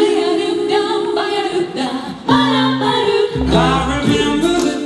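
Group of singers performing in harmony, a cappella style, with a low bass part coming in about three and a half seconds in.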